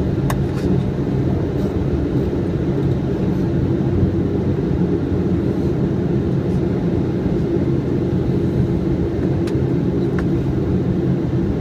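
Steady low drone of a Boeing 777's flight deck on approach, with gear down, plus a few faint clicks.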